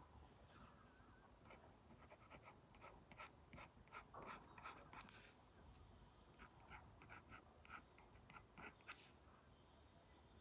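Apple Pencil tip tapping and sliding on an iPad's matte paper-like screen protector while drawing: faint, quick irregular taps with a short scratchy stroke about four seconds in.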